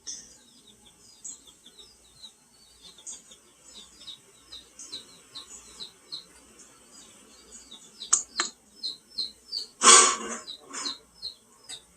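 A small bird chirping over and over: short, high, down-slurred notes, several a second. About 10 s in comes one louder, harsher call, with a couple of sharp clicks just before it.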